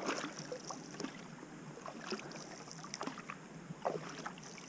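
Canoe under way: paddle strokes dipping and pulling through calm water, a few splashy strokes spaced about a second apart over a steady wash.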